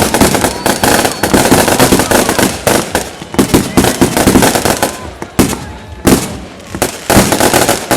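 Fireworks going off in rapid succession: a dense, continuous crackle of sharp bangs, with a loud burst of them about seven seconds in.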